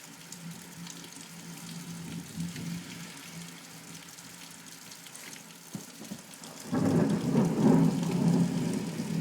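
Heavy rain hissing steadily, then about two-thirds of the way through a loud rumble of thunder breaks in suddenly and keeps rolling.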